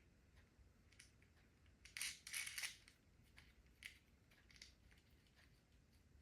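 Faint handling clicks, with a short cluster of sharp plastic clicks and rattles about two seconds in, as an EV charging connector is fitted into the holder of a ceiling cable retractor.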